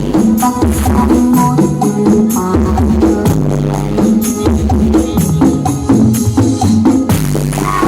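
Loud music blasting from the IMS Audio carnival sound system (a 'sound horeg' rig), with heavy, pulsing bass notes under a steady percussion beat.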